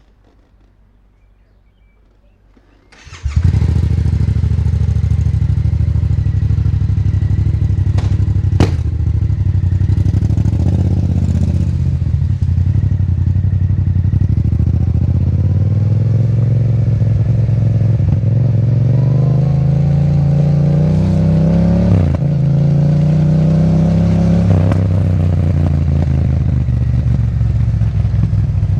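Yamaha MT-07's parallel-twin engine with a titanium Akrapovic exhaust starting up suddenly about three seconds in, then running loud, its revs rising and falling again and again. A single sharp click comes a few seconds after the start.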